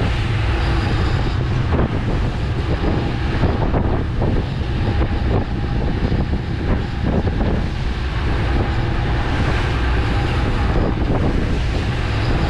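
Boat motor running steadily at trolling speed, with wind buffeting the microphone.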